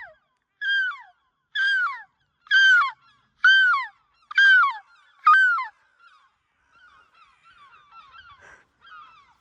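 Seagulls calling: six loud calls about a second apart, each sliding down in pitch, then fainter, scattered calls from more gulls after about six seconds.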